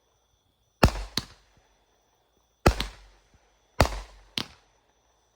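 A consumer multi-shot aerial firework cake firing three loud bangs about a second or two apart. Each bang is followed a moment later by a second, quieter crack.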